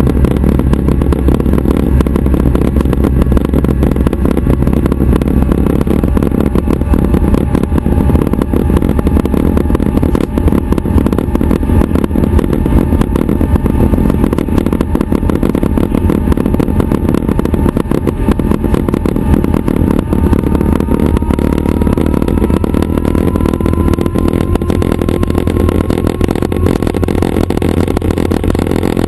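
Schweizer 269 helicopter's piston engine and rotor running steadily and loudly. A faint whine slowly rises in pitch through the middle stretch.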